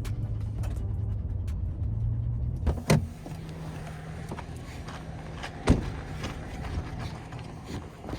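Pickup truck running slowly on a gravel road, its engine a steady low hum that drops in level about three seconds in. Two sharp knocks stand out, near three seconds and near six seconds.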